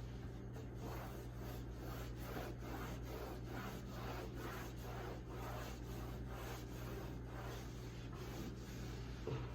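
Rhythmic hand scrubbing on the side of a refrigerator, about two to three back-and-forth strokes a second, to rub off stains.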